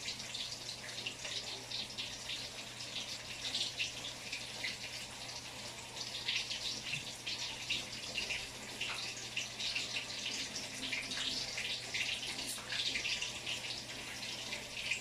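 Water running from a tap and splashing in a sink, a steady hiss with a patter of small splashes throughout.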